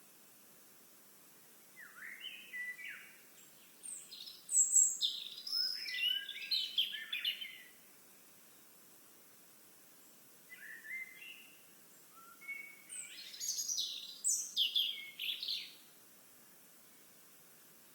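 A songbird singing two long, jumbled songs a few seconds apart. Each song starts with lower notes and runs into quick, high, varied phrases.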